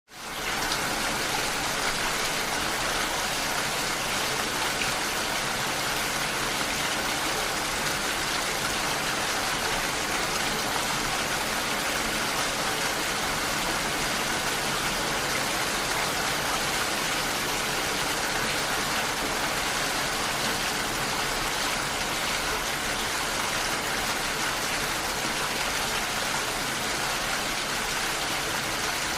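Rain falling steadily on window glass: an even hiss that fades in at the very start.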